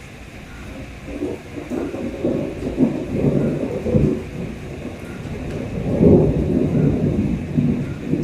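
Rolling thunder rumbling over steady rain. The rumble builds about a second in and swells several times.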